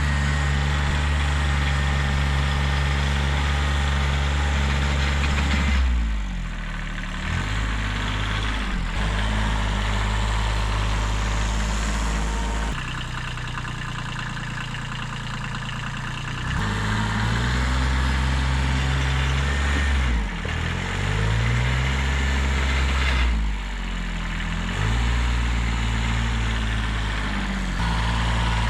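1978 Kubota B6100's 14 hp diesel engine running at working speed while pushing snow, its pitch sagging and recovering several times as the load changes.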